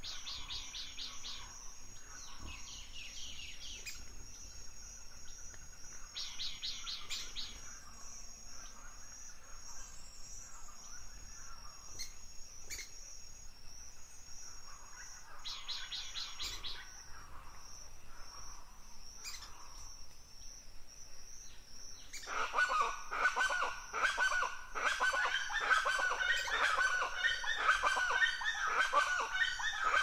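Forest birds singing: a few short, rapid trills, then, about three quarters of the way through, a louder long song of many quick notes. A faint steady high-pitched tone runs underneath.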